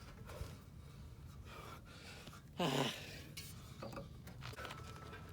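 A man's breathy exhale, a short groan falling in pitch from exertion, about two and a half seconds in, against faint background noise.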